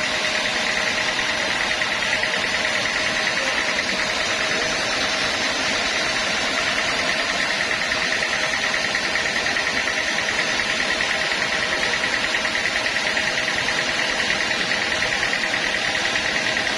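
Sawmill machinery running steadily, a constant mechanical hum with a high whine held throughout.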